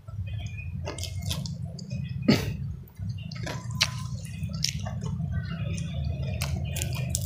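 Close-miked eating sounds: wet lip smacks, clicks and squishes of chewing rice and food eaten by hand, coming irregularly, with one louder smack a little past two seconds in. A steady low hum runs underneath.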